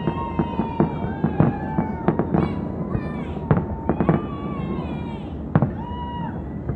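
Fireworks exploding: an irregular string of sharp bangs, several a second at times, with long wavering whistling tones over them.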